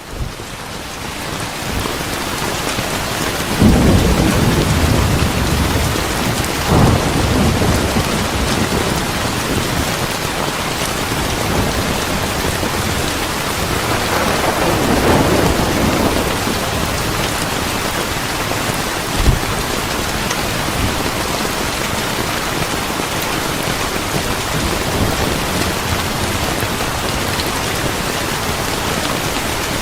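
Steady heavy rain, with thunder rolling in low rumbles about four seconds in, again around seven seconds, and once more in the middle. The rain fades in at the start.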